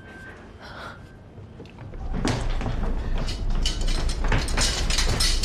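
Quiet at first, then about two seconds in a dense run of knocks and clatter begins over a low rumble, like a door and people moving in a hurry.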